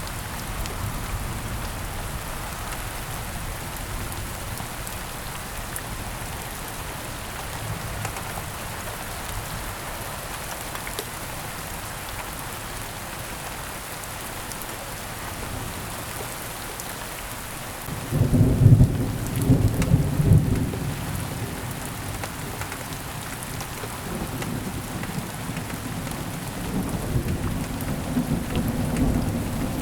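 Heavy rain falling steadily. About two-thirds of the way through, a low rumble of thunder breaks in suddenly and is loudest for a few seconds, then rolls on and swells again near the end.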